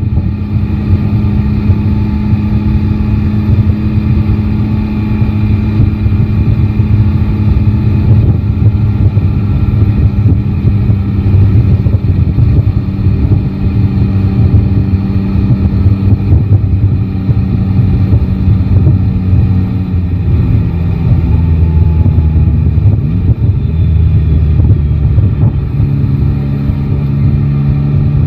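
Yamaha Tracer 9 GT's 890 cc inline three-cylinder engine running while the bike rides through traffic. The engine note is steady and shifts in pitch a few times as the speed changes.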